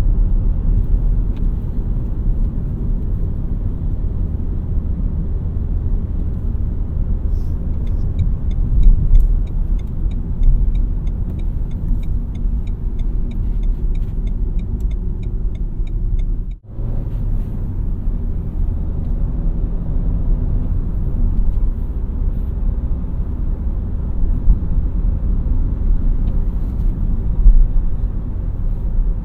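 Steady running of a 2017 Renault Mégane TCe 100 on the move: the 1.2-litre four-cylinder engine and road noise as a low rumble. A regular ticking, about three a second, runs for several seconds in the middle, and the sound cuts out for a moment about two-thirds through.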